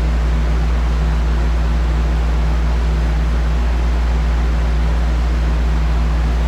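A steady machine running: a constant low hum under an even rushing noise, unchanging throughout.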